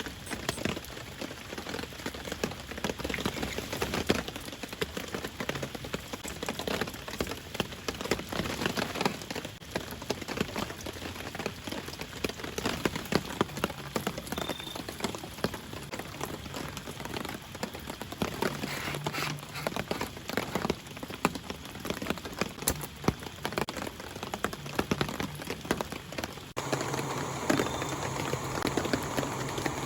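Rain falling, with many separate drops striking a surface close by. About 27 seconds in, the sound changes abruptly and becomes a little louder and fuller.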